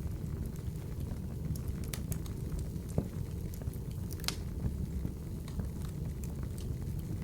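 Open wood fire in a fireplace burning with a low steady rumble and scattered crackles and pops, a sharper pop about three seconds in and another a little over a second later.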